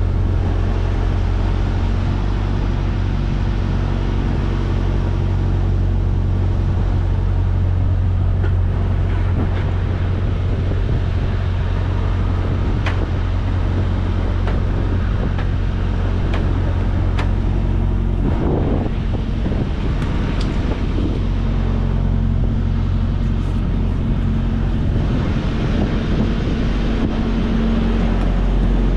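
Freightliner semi truck driving, heard from inside the cab: a steady low diesel engine drone with road noise. There are a few faint ticks and a brief louder rush about two-thirds of the way through.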